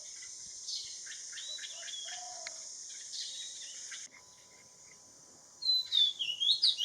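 Garden birdsong over a steady high insect hiss, with small birds chirping; the hiss cuts off abruptly about four seconds in. Near the end a bird gives a run of loud, sharp calls that sweep quickly down and up in pitch.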